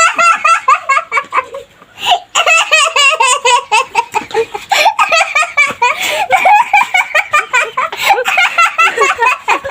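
Small children laughing hard in long, rapid, high-pitched fits, with a brief pause about two seconds in.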